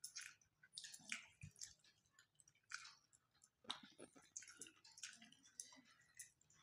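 Faint, irregular chewing and mouth smacks of people eating rice and curry by hand.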